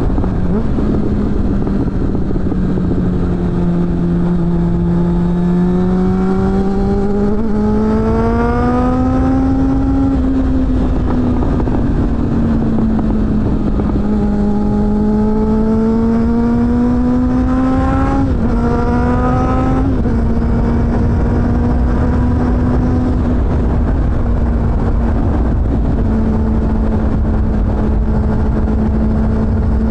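Suzuki GSF600 Bandit's inline-four engine through a BOS aftermarket exhaust, heard while riding with wind rumble on the microphone. The engine note climbs twice as the bike accelerates, dips briefly near the end of the second climb, then settles to a steady cruise.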